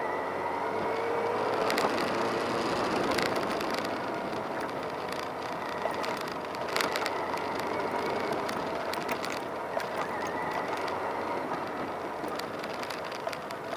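A motor vehicle on the move: a steady engine drone with slowly wavering pitch under road and wind noise, with scattered small clicks and knocks.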